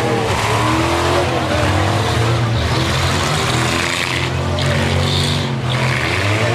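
Mini-van and pick-up engines running hard and revving, their pitch rising and falling, during a demolition derby heat. Spells of tyre noise come twice, about halfway through and again near the end.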